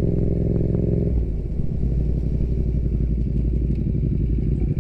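Yamaha MT-07 parallel-twin motorcycle engine with an Akrapovič exhaust running under way at a steady speed; the engine note eases and drops a little about a second in.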